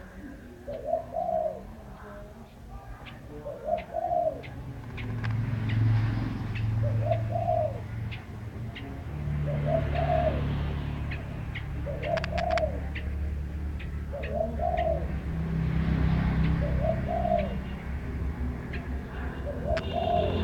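A dove cooing, a short arched coo repeated every second or two, with faint high chirps alongside. A low rumble comes in about a quarter of the way through.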